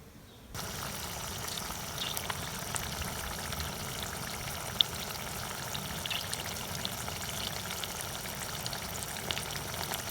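Minced-meat cutlets sizzling as they fry in hot oil in a pan, a steady crackle with scattered pops and one sharper pop near the middle. The sizzle starts suddenly about half a second in.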